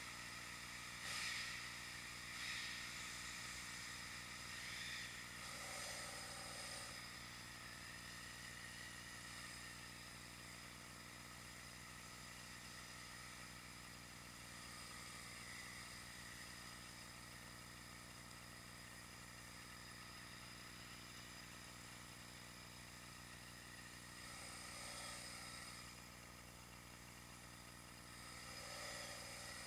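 Faint steady road and wind noise picked up by an action camera on a moving bike, with a few brief louder swells in the first several seconds and again near the end.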